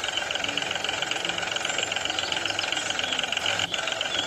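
Engine running steadily at idle, with a rapid, even knocking beat.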